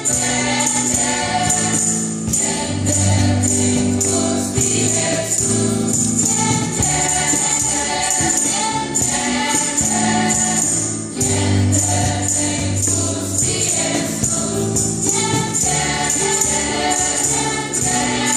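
Church choir singing with instrumental accompaniment, with a low bass line under the voices and a steady beat.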